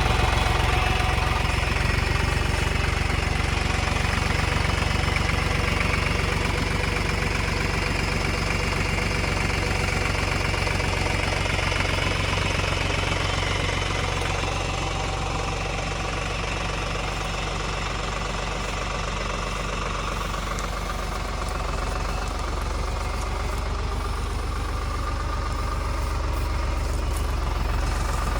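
Tractor engine running steadily with a knocking clatter. It eases off a little about halfway through and picks up again near the end.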